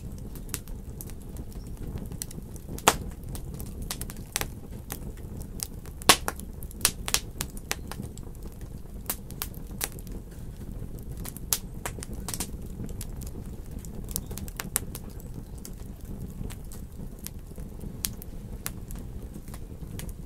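Wood fire crackling in a fireplace: irregular sharp pops and snaps over a steady low noise of burning, with the loudest pops about three and six seconds in.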